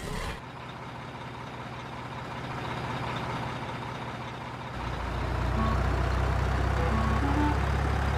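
A truck engine running steadily, getting louder about five seconds in, with a few short beeping tones near the end.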